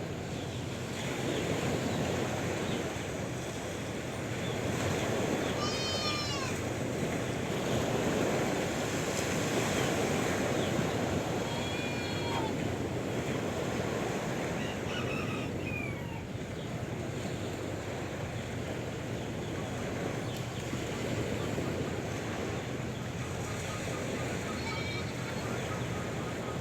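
Sea waves washing steadily on the shore, with a few short animal calls heard over the surf, scattered through the stretch.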